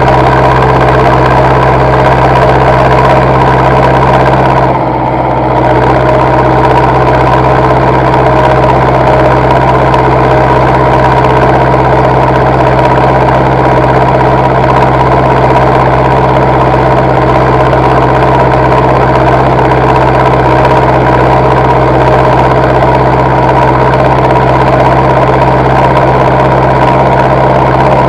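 Zetor tractor diesel engine running steadily with a strong low hum, dipping briefly in level about five seconds in.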